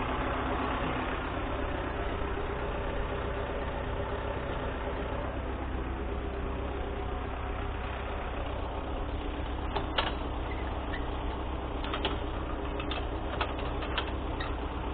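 MTZ-892 tractor's diesel engine idling steadily, with a few sharp metallic clicks and knocks in the second half.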